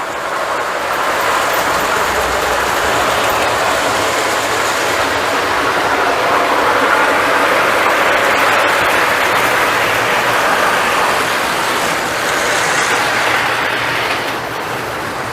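Lionel model train running along the layout's track: a steady rolling rumble of wheels and motor that grows louder toward the middle and eases off near the end as the train passes by.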